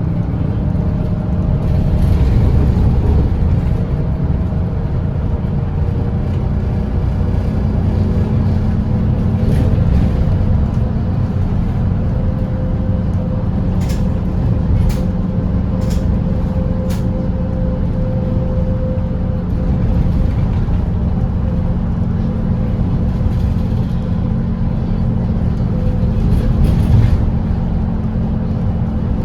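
Volvo B8RLE double-decker diesel bus engine running steadily at highway cruising speed, a continuous low drone with a faint higher whine. A few short light clicks come about a second apart around the middle.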